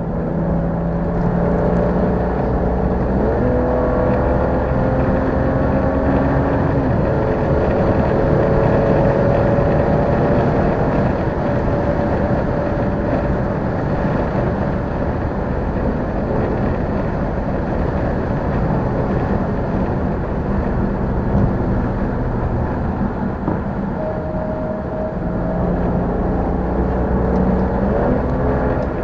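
Car engine, by the channel name a BMW N55 turbocharged inline-six, running under way in traffic. Its pitch steps up about three seconds in, drifts for a few seconds, settles lower, and climbs again near the end.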